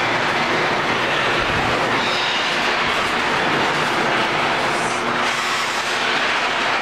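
Sears Craftsman 1/2-horsepower garage door opener running loud and steady as it closes the garage door, with a continuous mechanical rattle.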